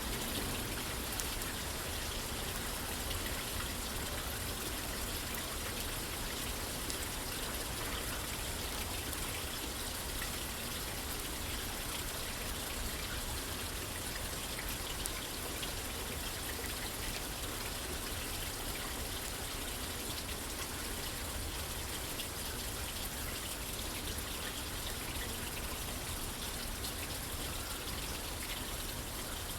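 Steady rain falling on a roof, mixed with the scattered small crackles of a wood fire in a fireplace.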